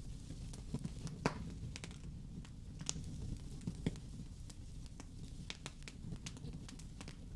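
Wood fire crackling in a fireplace: irregular sharp pops and snaps over a low, steady rumble of the flames, with the loudest pop a little over a second in.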